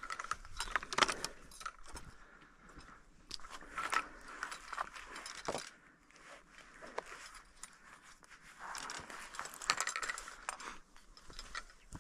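Scattered light clicks and rustling of gear being handled, irregular and unrhythmic, bunched more thickly near the end.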